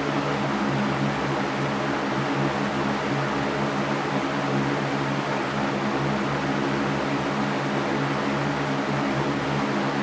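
Electric fan running steadily: an even rushing hiss of moving air over a low motor hum.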